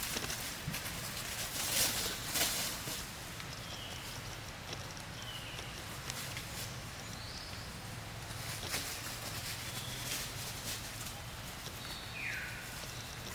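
Outdoor ambience with a steady background hiss, a few rustles and knocks in the first few seconds, and several short high animal chirps, the last a longer call that falls in pitch near the end.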